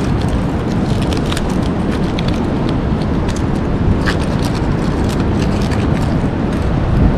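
Wind buffeting the microphone with a steady low rumble and ocean surf behind it, with scattered short sharp clicks and scrapes throughout.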